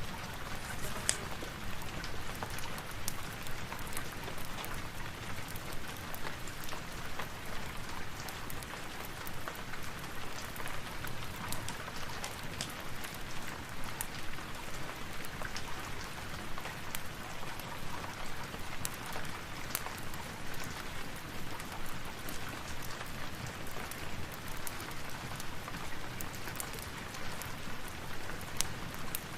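Steady rain mixed with a crackling fireplace, the crackles heard as scattered sharp clicks and pops over the even hiss of the rain.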